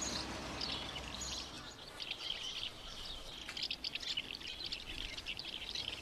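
Small birds chirping and twittering: many short, high calls, busiest in the second half.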